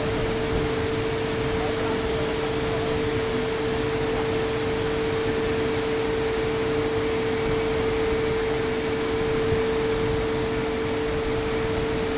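Waterfall water rushing, an even steady noise with no break, with a faint steady tone running through it.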